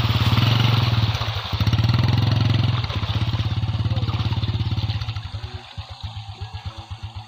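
Honda motorcycle engine running hard as it is ridden into shallow river water, easing off briefly about three seconds in, then settling to a slow, uneven idle with separate firing pulses about five seconds in.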